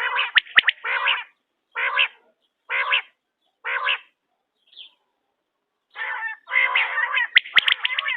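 Quail calling. A quick cluster of calls opens, then single calls about once a second, a short pause, and fast overlapping calls mixed with sharp clicks from about six seconds in.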